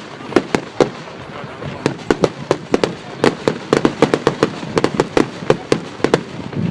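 Firework display: a rapid, irregular string of sharp bangs and crackling reports, several a second, thinning briefly about a second in.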